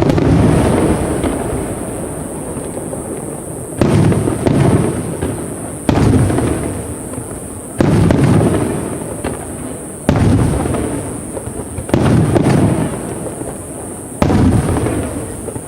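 Aerial firework shells bursting one after another, a sharp boom about every two seconds, each followed by a rumble and crackle that dies away before the next.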